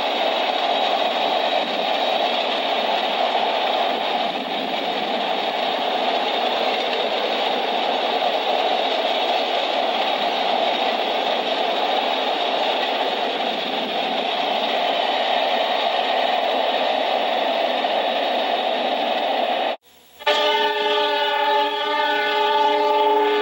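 Frisco freight train rolling past, a steady rumbling rush of wheels on rail. After a short break near the end, a diesel locomotive's air horn starts blowing a sustained multi-note chord.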